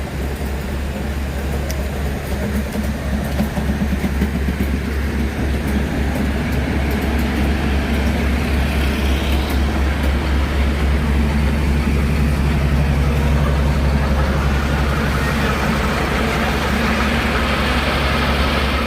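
Heritage diesel locomotive engine running with a steady low rumble, growing louder toward the middle and holding there.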